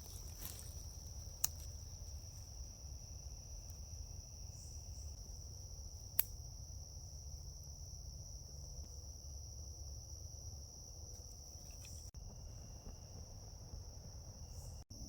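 Night insects, crickets or katydids, singing as one steady, even high-pitched drone, with two sharp clicks, about a second and a half and about six seconds in.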